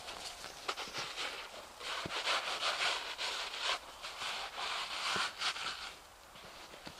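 Snow being brushed off by hand: repeated swishing, scraping strokes in bursts, easing off near the end.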